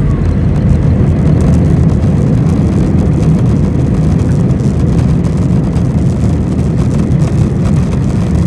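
Airbus A320 engines and airframe heard from inside the cabin during the landing, a loud steady rumble.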